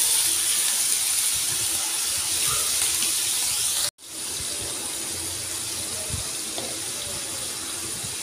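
Diced chicken sizzling in hot oil in a frying pan, a steady hiss. It cuts out for an instant about four seconds in and comes back a little quieter.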